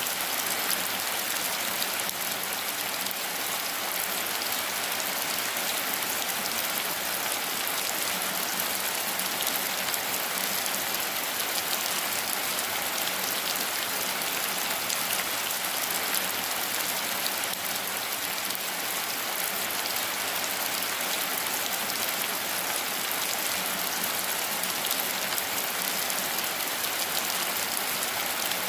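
Steady rain falling: an even hiss of rainfall with a dense patter of small drops, unchanging throughout.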